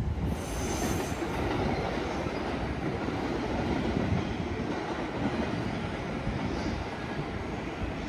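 JR East passenger train running through the station: steady noise of wheels on rail, with a brief high hiss near the start.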